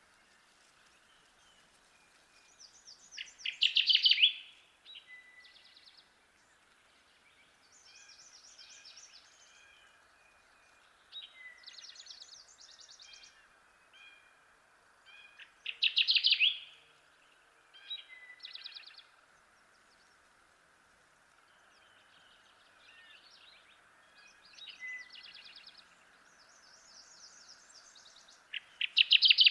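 Kirtland's warbler singing its loud, rapid song three times, roughly twelve seconds apart. Fainter bird songs come between them over a steady background hiss.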